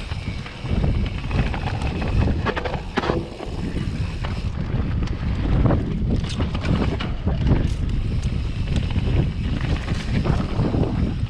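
Wind buffeting the microphone as a Transition Patrol mountain bike rolls down a muddy dirt trail, with tyre noise and scattered sharp clicks and rattles from the bike over bumps.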